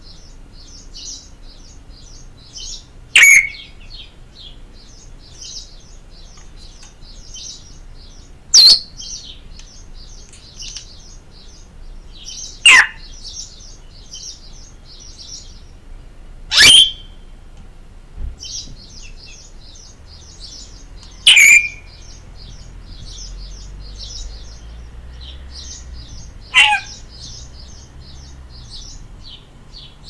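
Birds calling: a continuous chatter of small, high chirps, broken six times by a loud call that sweeps sharply downward in pitch, about every four to five seconds.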